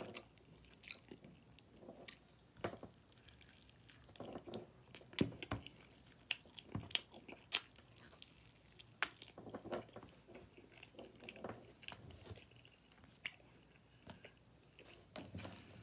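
A person chewing sauce-covered ribs close to the microphone. Wet smacks and mouth clicks come at irregular intervals.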